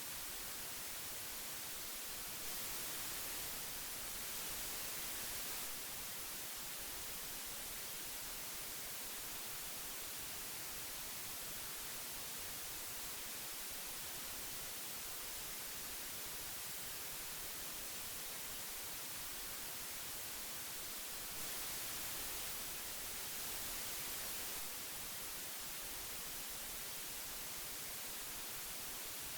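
Hiss from old magnetic tape: a steady, bright hiss with no tones in it. It swells slightly for about three seconds around three seconds in, and again around twenty-one seconds in.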